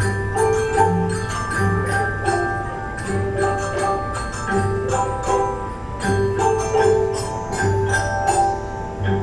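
Instrumental music from a school ensemble: bright pitched percussion notes and bell-like strikes over low bass notes that recur about every second and a half.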